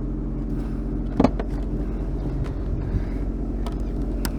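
Jet-drive watercraft engine idling steadily, with a few sharp knocks about a second in and near the end.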